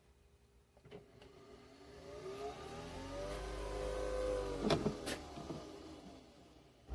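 A small electric motor spinning up, running at a steady speed, then winding down, with two sharp clicks near its peak.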